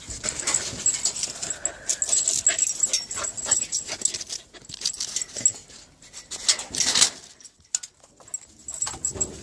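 A dog whimpering and whining amid scraping, rustling and handling noises.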